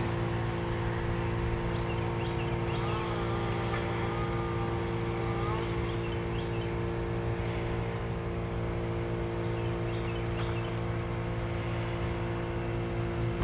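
A steady motor hum running in the background, with small birds chirping in short clusters of high calls every few seconds.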